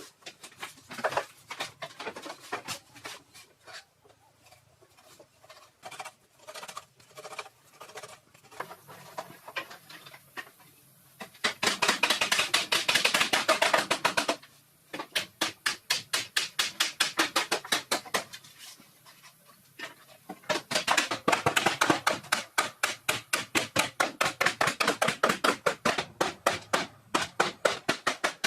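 A hand tool striking in fast, even knocks, several a second. The strikes come sparse and lighter at first, then in a loud run about a third of the way in, and a longer loud run through the last third.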